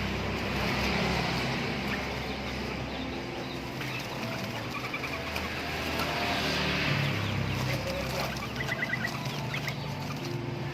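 Small bird giving two short runs of rapid high chirps, about five and about nine seconds in, over a steady background hum; the uploader asks whether this is a prenjak (bar-winged prinia).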